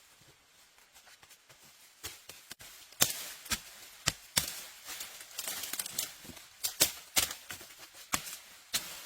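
Wood being chopped: irregular sharp knocks, one or two a second, starting about two seconds in and coming thick from about three seconds in.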